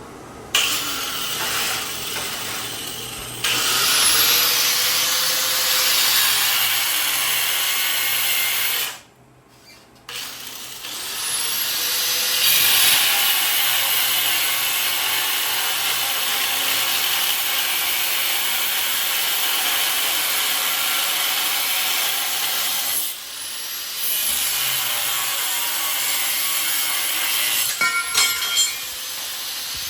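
Power tool cutting steel stock to length for smoker racks, a steady harsh grinding noise that stops for about a second partway through and then resumes, with a few sharp clicks near the end.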